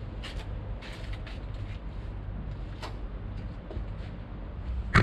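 A steady low engine hum, with a few faint creaks and light knocks of metal.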